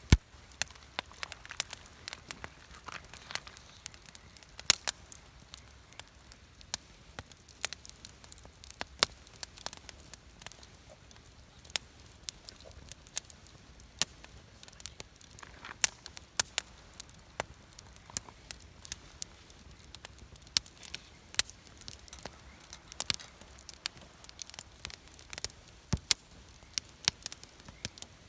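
Wood campfire crackling, with irregular sharp pops and snaps over a faint low hiss.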